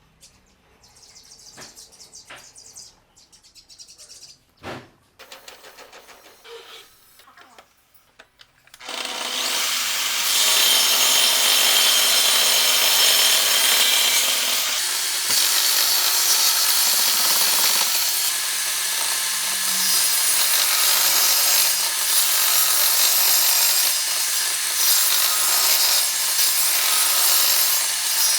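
A power tool cutting wood starts about nine seconds in and runs steadily and loudly. Before it, faint bird chirps and a few light clicks.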